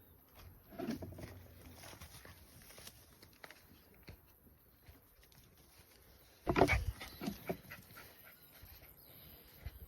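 An animal making short calls: a brief low sound about a second in, then a louder burst of several short sounds about two-thirds of the way through.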